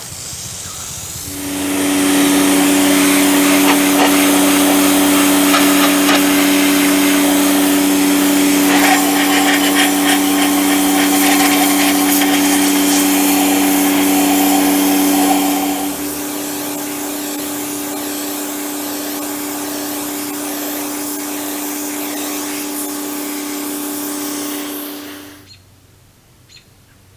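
A motor-driven machine starts up and runs with a steady hum and a loud hiss. Partway through it drops to a quieter, thinner level, and it shuts off near the end.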